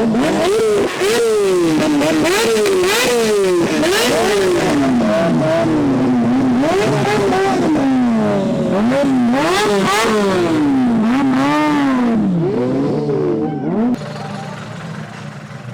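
Car engine revved hard over and over, the pitch climbing and falling about once a second, until it cuts off abruptly near the end and a quieter background remains.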